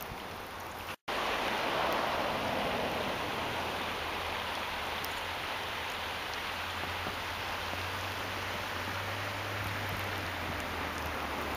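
Steady hiss of a snowstorm, like rain or sleet falling on a surface, with a low rumble growing in the second half. The sound drops out completely for a moment about a second in.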